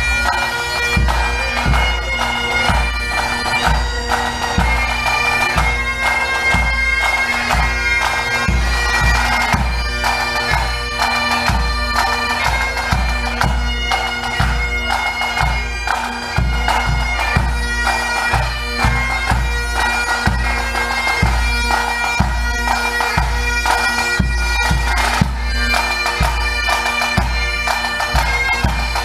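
Pipe band playing: bagpipes sounding a melody over their steady drone, with regular drum beats underneath.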